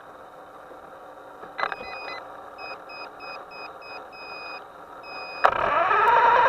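A click, then a run of short high electronic beeps at about three a second with a longer beep at the end. About five seconds in, a loud rushing sound starts abruptly and rises in pitch.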